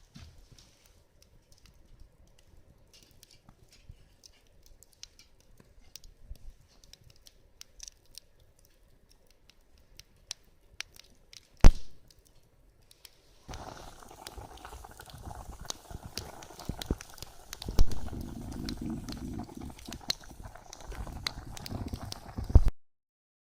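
Campfire crackling faintly with scattered small pops, a single sharp knock about twelve seconds in, then a louder spell of rustling, rumbling noise with more crackles for the rest.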